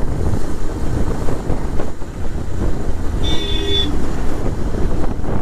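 Wind rushing over the microphone with a motorcycle running at speed on the road, a steady loud rumble. A brief high-pitched beep sounds a little past the middle.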